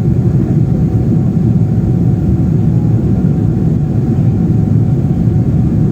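Steady, loud rumble of a Boeing 777-300's engines and airflow, heard from inside the passenger cabin.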